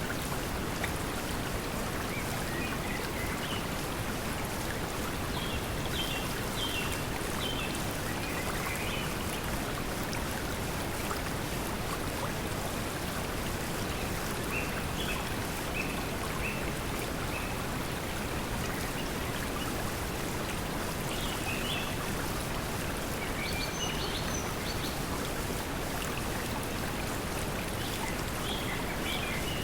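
Steady pink noise mixed with flowing water, with short bird chirps on and off above it.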